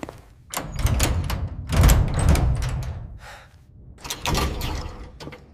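A door being shaken and banged hard in three heavy bursts, the loudest around two seconds in: it is locked and will not open.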